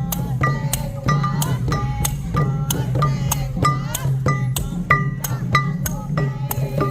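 Khmer traditional festival music: a quick, sharp clicking percussion beat with short metallic rings, over a wavering melody and a steady low drum.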